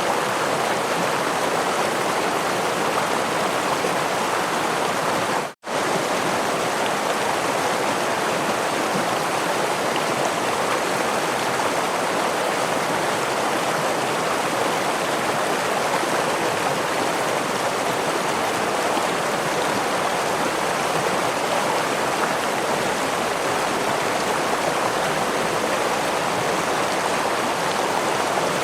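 Forest stream running over a small waterfall, a steady, even rush of water. The sound cuts out for an instant about five seconds in and resumes unchanged.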